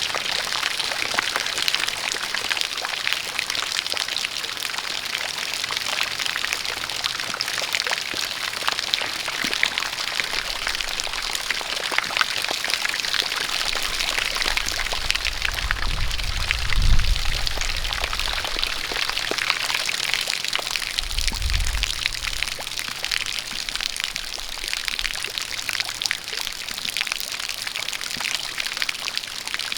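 Steady rain falling, a dense patter of drops, with a stream of water pouring. A low rumble swells up twice near the middle.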